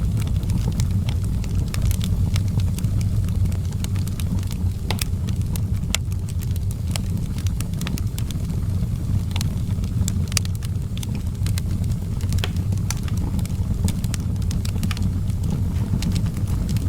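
Fire in an outdoor fireplace crackling, with many sharp irregular pops over a steady low rumble.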